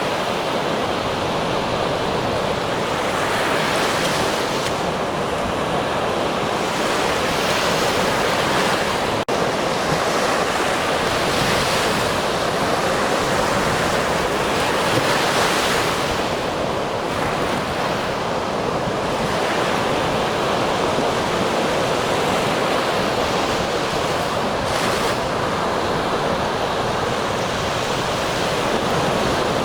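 Ocean surf washing onto a shore in a steady, continuous rush, swelling every few seconds as waves break. A momentary dropout about nine seconds in.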